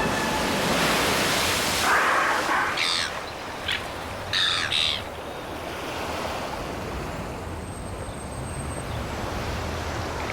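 Ocean waves washing, a recording played out of a storm-drain grate, with a few short louder surges in the first half.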